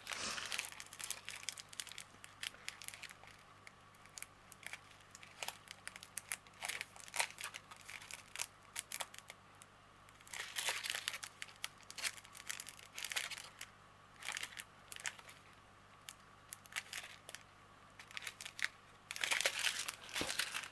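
Small plastic packets of diamond painting drills crinkling as they are handled and turned over, in irregular bursts with short quiet gaps.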